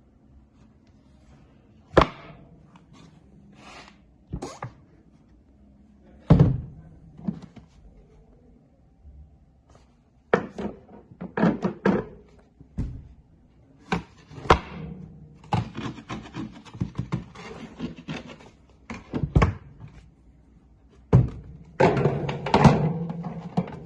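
Irregular thunks and knocks from handling the plastic body, lids and latches of an Alpicool TW75 compressor car fridge, with denser rattling in two stretches.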